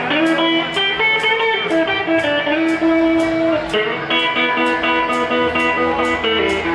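Blues band playing live: electric guitar notes over a steady ticking beat of about three ticks a second.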